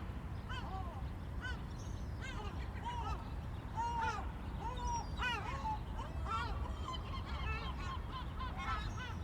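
A crowd of gulls calling over one another with short, harsh, arching cries, several a second, as they squabble over fish scraps. A steady low rumble runs underneath.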